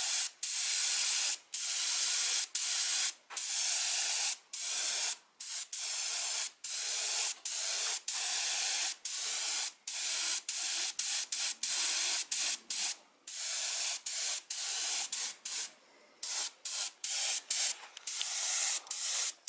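Paint spraying onto the concrete in repeated short hissing bursts, about one or two a second, each cut off sharply. The bursts get shorter and come quicker near the end. This is a light shading pass from a distance over the painted stone.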